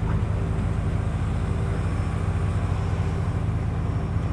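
Mercedes-Benz Unimog U500's turbo diesel engine running steadily at cruise, heard from inside the cab.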